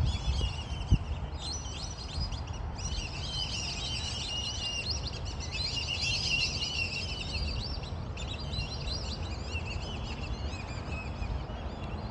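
A flock of birds calling in chorus, many short high chattering calls overlapping without a break in the din. A single knock about a second in.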